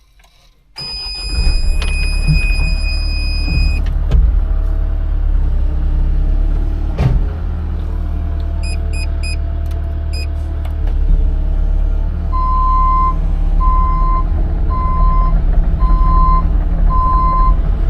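CAT 306 mini excavator's diesel engine starting about a second in and running at a steady low idle. A high steady warning tone sounds for about three seconds after the start. Near the end a cab warning beeps about once a second, with the fuel gauge just above empty.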